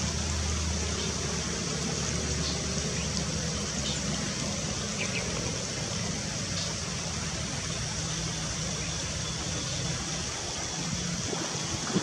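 Steady rushing noise like running water from a stream, with a low hum under it that fades out about four seconds in. A few faint, short bird chirps come through it.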